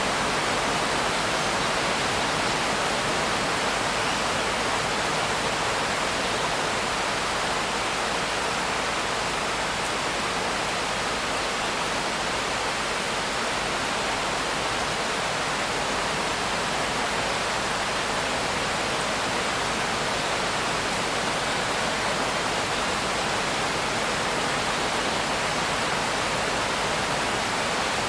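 Steady rain: an even hiss with no single drops, thunder or changes standing out.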